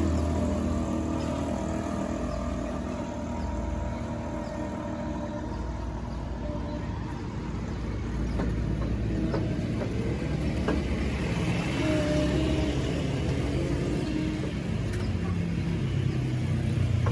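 A steady low mechanical hum, like a running engine, with a few faint clicks.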